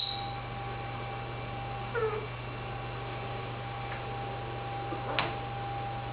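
Meyer's parrot giving one short call that falls in pitch about two seconds in, then a single sharp click or chirp about five seconds in, over a steady background hum.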